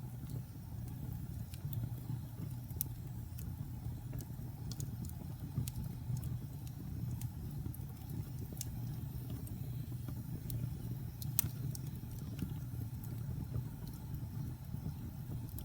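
Wood fire burning in a fireplace: a steady low rumble of flames with scattered, irregular sharp crackles and pops, one louder pop about eleven seconds in.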